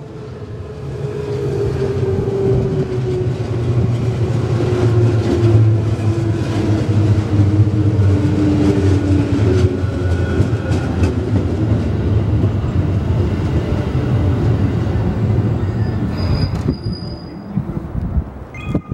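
Electric multiple-unit train running along the track: a steady low rumble with a whine that slides slowly down in pitch over the first ten seconds. The sound fades out about sixteen seconds in.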